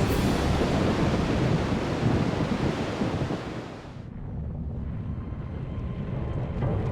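A loud rushing noise, like surf or wind, that dies away about four seconds in, leaving a quieter low rumble.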